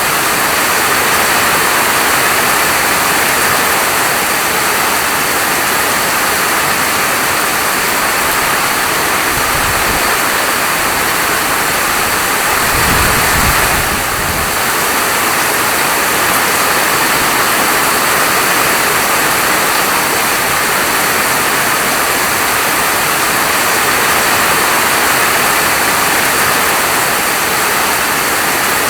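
Steady, heavy rainfall: a dense, even hiss of falling rain, with a brief low rumble about halfway through.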